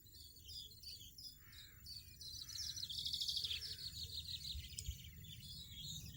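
European goldfinches twittering: a rapid run of high, short chirps that grows densest and loudest about midway through, then thins out.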